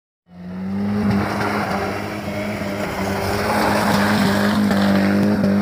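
BMW 3 Series Compact's engine held at steady revs while the car spins donuts on gravel, with gravel and dirt spraying from the spinning rear tyres.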